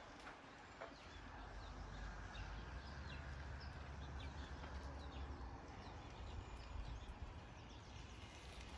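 Faint outdoor ambience: small birds chirping now and then over a low steady rumble.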